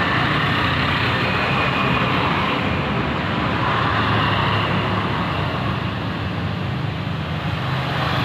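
Ketinting longtail boat engine, a small single-cylinder motor driving a propeller on a long shaft, running steadily at a constant speed.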